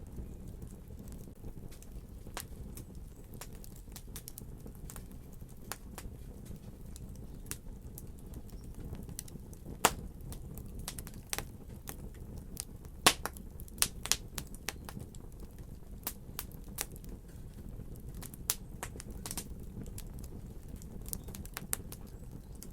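Fire crackling in a fireplace: irregular sharp pops and snaps over a steady low rumble, with the loudest pops about ten and thirteen seconds in.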